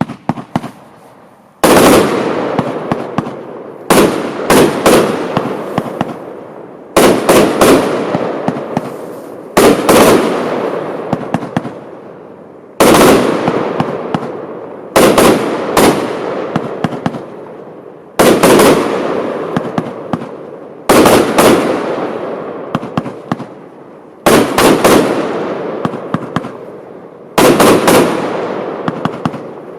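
Lesli Bloodhound compound firework cake firing: sharp bangs every two to three seconds, often two or three close together, each trailing off in a fading rush of noise before the next shot.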